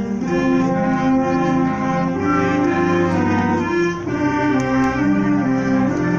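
A symphonic wind band playing, with brass chords to the fore over a moving lower line.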